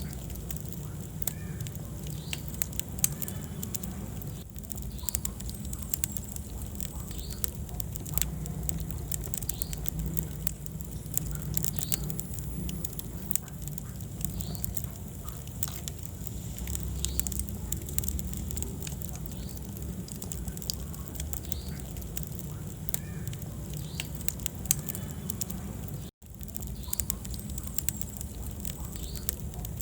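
Wood fire burning in a fireplace: irregular sharp crackles and pops over a low, steady rumble of flame. The sound cuts out for a moment near the end.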